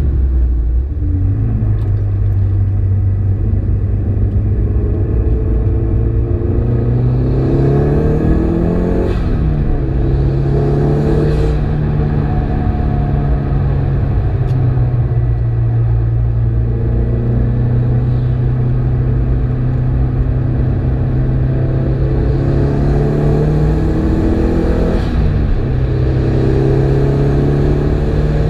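Ford Focus RS engine heard from inside the cabin under hard driving. The revs climb under acceleration and drop sharply at upshifts about nine seconds in and again near the end, with a long steadier stretch in between.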